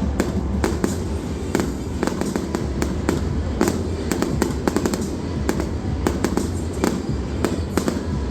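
Fireworks display: a rapid, irregular string of bangs and cracks, several a second, over a steady low rumble.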